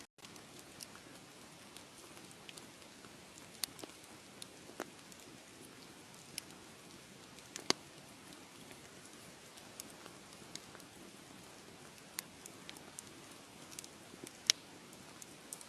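Wood fire crackling: a soft steady hiss with scattered sharp pops and snaps, a few of them louder, the loudest near the end.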